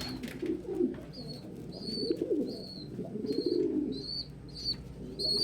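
Domestic pigeons cooing, with a short high peep repeated about every half second.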